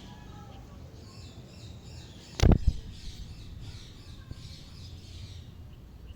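Small birds chirping in short high calls, with a loud thump, followed at once by a second smaller knock, about two and a half seconds in.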